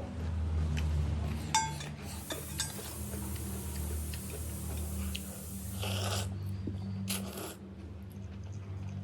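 Eating a bowl of noodle soup: a spoon strikes the bowl once with a ringing clink about a second and a half in, followed by slurping and eating sounds, over a steady low hum.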